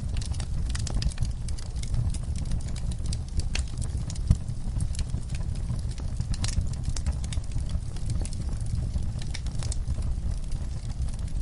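Wood fire crackling in a fireplace: irregular sharp pops and snaps over a steady low rumble from the flames, with one louder pop about four seconds in.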